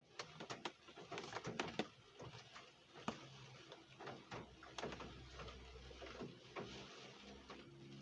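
Raindrops tapping irregularly on a hard surface, a few sharp drips a second, with a low steady hum underneath from about four seconds in.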